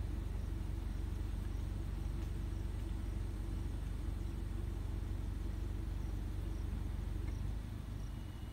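Vehicle engine idling with a steady low rumble that drops in level near the end.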